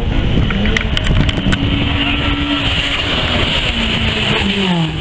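Rally car engine running hard at high revs, its note shifting with the throttle, with a few sharp cracks in the first second and a half. Over the last second the engine note drops steadily.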